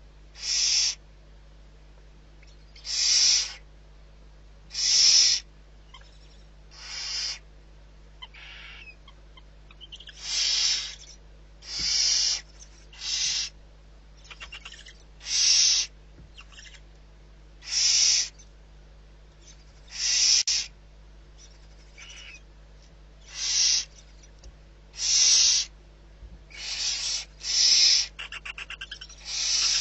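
Barn owl giving about fifteen harsh, hissing screech calls, one every second or two. Near the end there is a brief rapid rattle.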